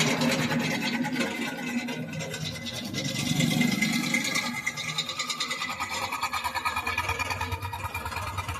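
Jigsaw running and cutting wood, the blade making a fast, steady reciprocating buzz. About five seconds in the tone deepens and the loudness starts to pulse rapidly as the cut goes on.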